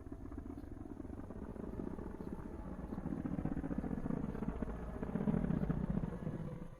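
A low, fast-pulsing mechanical drone like an engine or rotor, slowly growing louder and then dropping away near the end.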